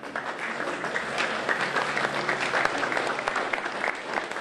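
Audience applauding, a dense patter of many hands clapping that swells and then dies away near the end.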